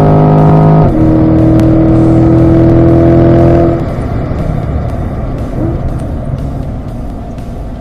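Chevrolet Corvette C8 Stingray's 6.2-litre LT2 V8 at full throttle, heard from inside the cabin, its note rising until a quick upshift into fifth about a second in drops the pitch. It pulls on in fifth until nearly four seconds in, when the throttle closes for hard braking and the sound falls to a quieter, rougher note.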